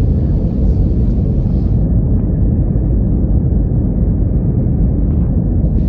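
Loud, steady low rumble of an Airbus airliner heard from inside the cabin: engine and airflow noise.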